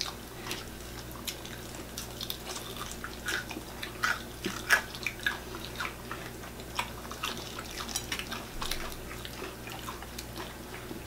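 Close-up eating sounds of fried chicken being bitten and chewed: irregular crunches, crackles and mouth smacks, with no regular rhythm.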